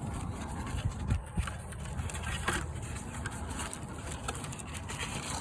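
An oil filter's cardboard box and plastic wrapping handled and opened, giving a few faint crinkles and clicks over a steady low rumble.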